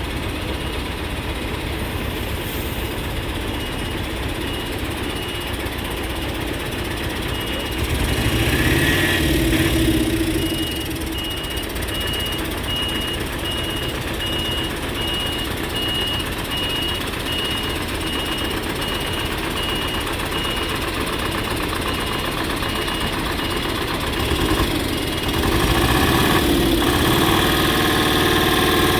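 Heavy diesel machinery running steadily, with a repeating high-pitched beep. The engine grows louder for a couple of seconds about a third of the way in, and again near the end.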